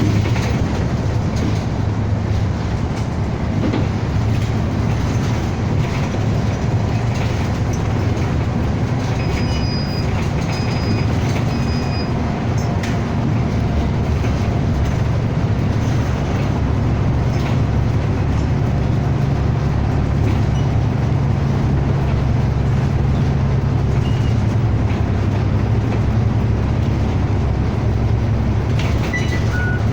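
City bus driving, heard from inside the cabin: a steady low engine drone mixed with road and rattle noise, with a few faint high squeaks about ten seconds in.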